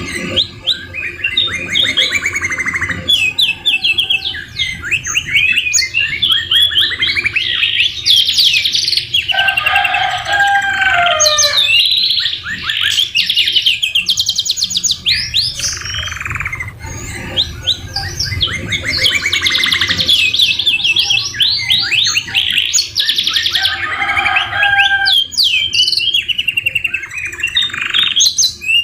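Domestic canary singing without a break: long rapid rolling trills and quick whistled phrases, its song filled with phrases copied from the white-rumped shama.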